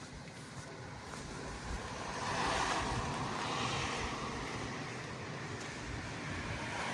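Heavy rain falling, a steady wet hiss that swells about two seconds in and eases slowly.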